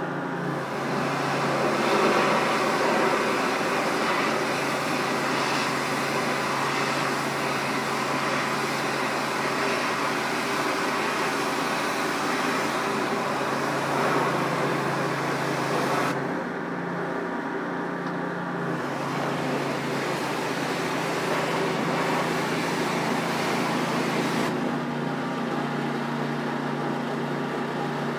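Engine-driven pressure washer running steadily with its high-pressure spray hissing against the wall. The spray stops twice, about two-thirds of the way through for two seconds and again near the end, and the engine note rises a little each time the spray is off.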